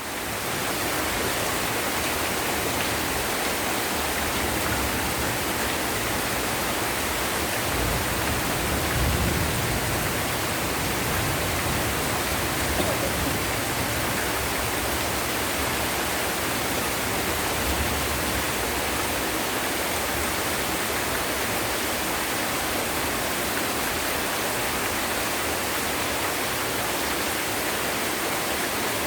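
Heavy rain falling steadily, a dense even hiss, with a brief deeper swell about nine seconds in.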